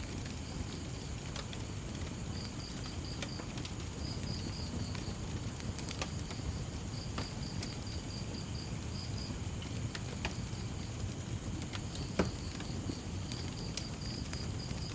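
Wood fire crackling, with irregular sharp pops, one louder pop about twelve seconds in, over a low steady rumble. Behind it, crickets chirp in quick pulsed trains, with a steady high insect drone.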